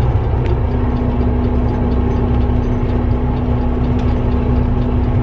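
Inside a moving semi-truck's cab: the heavy diesel engine's steady low drone and road rumble, with a steady hum joining about half a second in.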